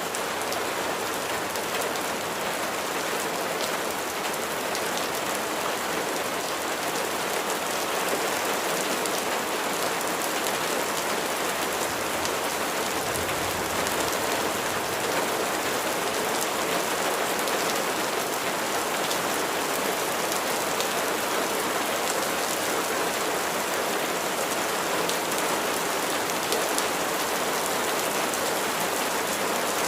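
Steady, heavy rain: an even hiss of falling water with many separate drop hits through it.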